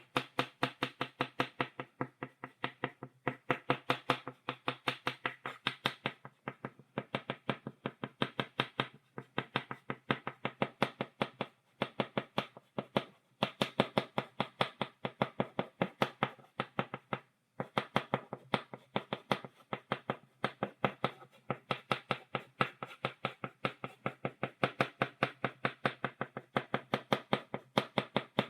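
Chalk tapping rapidly on a blackboard, a quick steady run of short dry taps, several a second, with a few brief pauses.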